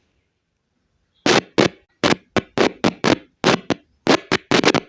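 Creative A300 speaker driver giving about a dozen sharp pops as a battery cell's wires are tapped across its terminals, starting about a second in. The pops show the speaker is working.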